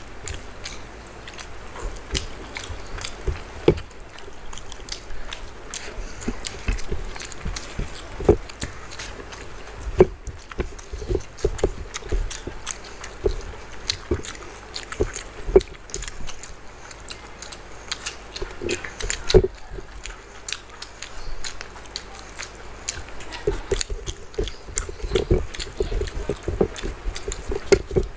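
Two people eating fried rice and chicken gizzard curry with their hands close to a table microphone: chewing and lip-smacking mouth sounds with many short, irregular clicks.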